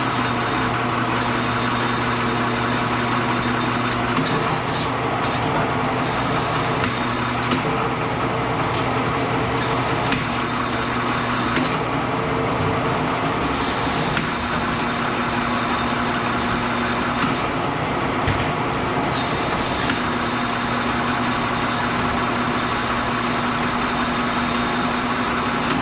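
Steady machine drone with a low hum, broken by a few brief knocks.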